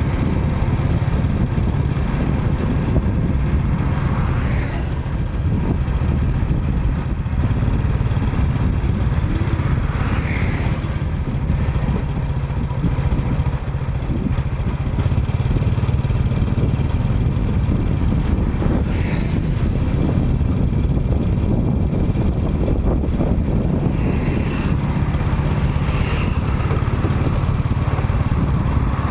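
A motor vehicle engine running steadily as a loud, continuous low rumble, with a few brief higher-pitched sounds over it.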